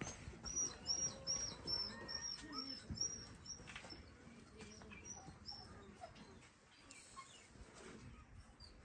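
A small bird chirping a quick series of short, high, evenly spaced notes, about two or three a second, that stops about five seconds in.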